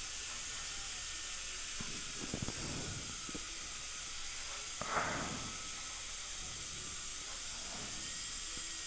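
Steady high-pitched hiss of dental operatory equipment, such as suction running during the procedure, with a few faint instrument clicks a couple of seconds in and a brief knock about five seconds in.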